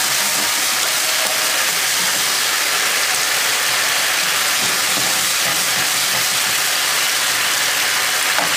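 Chicken in Schezwan sauce sizzling in a frying pan over a high gas flame, a steady hiss, while a spatula stirs it.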